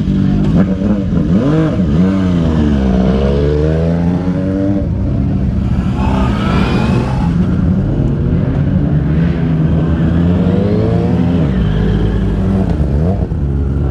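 Several motorcycle engines running past together, their pitch rising and falling as the riders rev up and roll off the throttle.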